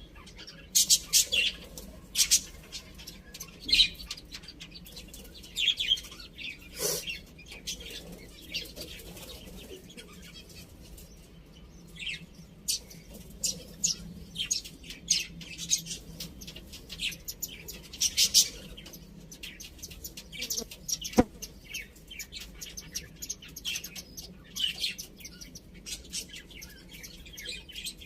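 Small birds chirping: many short, high-pitched chirps scattered irregularly, some in quick runs, with no rooster crow among them.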